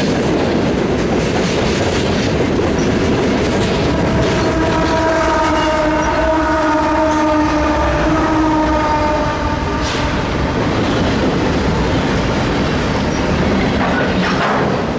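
Union Pacific freight train rolling past: a steady rumble with wheels clacking over the rails. For about five seconds in the middle a held, many-pitched tone sounds over it, as the mid-train locomotives go by.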